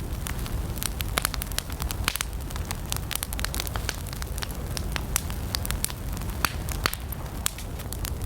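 Wood campfire burning: a steady low rumble of flames with frequent sharp crackles and pops, several a second, from the burning wood.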